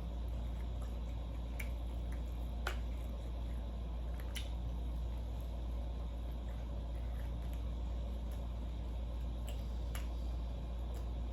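Quiet eating sounds at a red snapper meal: soft chewing and mouth smacks with a few sharp clicks, over a steady low hum.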